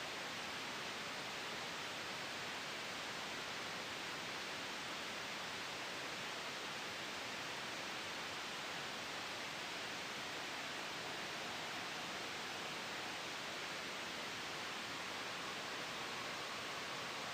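Steady sleep white noise: an even, unchanging hiss, strongest in the upper range, with no gusts or sudden changes.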